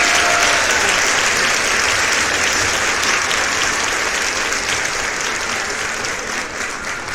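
Steady rush of a mountain stream, water splashing over rocks, slowly fading away.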